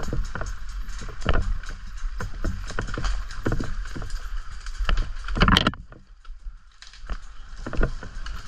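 Off-road bike riding over rough, muddy ground, heard from a bike-mounted action camera: a steady rumble and hiss under a run of irregular knocks and rattles, the loudest cluster about five seconds in, then a brief lull.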